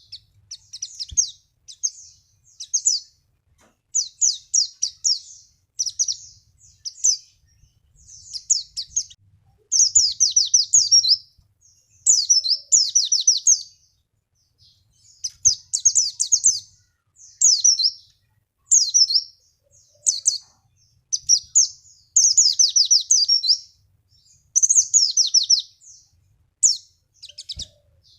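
White-eye (pleci) singing: high, fast twittering trills and warbled phrases, each lasting up to about two seconds, repeated with short pauses, in the style of a lure song for prompting caged white-eyes to sing.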